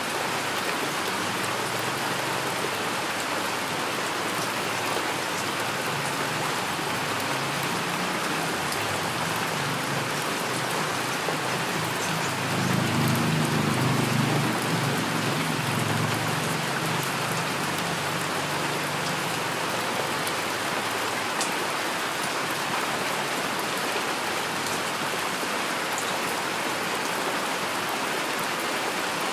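Steady heavy rain falling. Under it, a low rumble of distant thunder swells, peaks near the middle and fades away.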